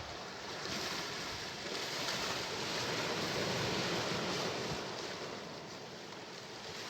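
Sea waves breaking and washing ashore: a rushing surf that swells about a second in and eases off near the end.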